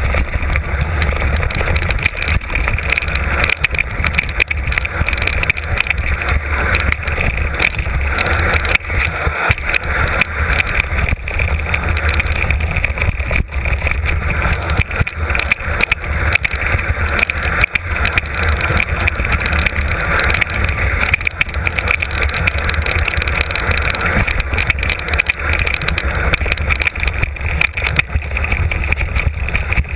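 Mountain bike riding down a rough trail, heard from a camera mounted on the rider or bike: tyres rolling over stones and gravel with constant small rattles and knocks, and wind rumbling on the microphone.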